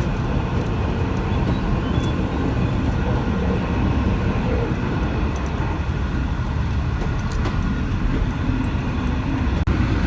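V/Line H set passenger carriage running along the track, a steady low rumble with faint clicks and rattles over it.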